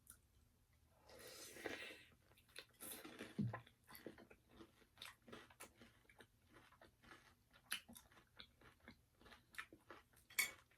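Faint close-up eating sounds: crispy fried chicken being bitten and chewed, with many small crunches and crackles of the breaded skin.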